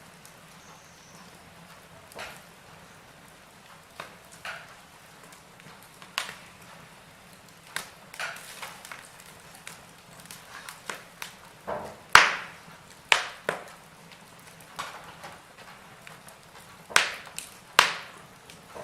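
Burning logs in a fireplace crackling, with irregular sharp pops, the loudest about twelve seconds in and two more near the end, over a faint steady background hiss.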